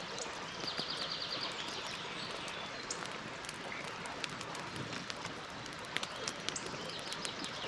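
Campfire burning with a steady hiss and many sharp crackles and pops of burning wood. A short trill of high repeated notes, from a bird, comes about a second in and again near the end.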